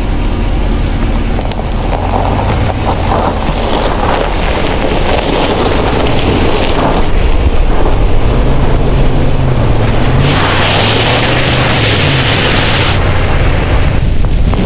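Ram 1500 pickup's engine revving, its pitch rising and falling, under heavy rumbling wind noise on the microphone. A louder hiss comes in about ten seconds in and lasts about three seconds.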